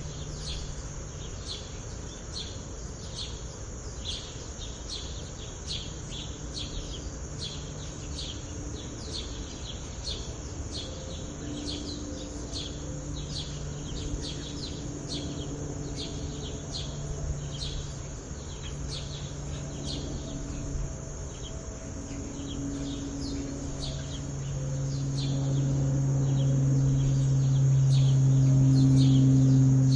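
Small bird chirping: short, quickly falling high notes repeated about twice a second, over a low steady hum that swells in the last few seconds.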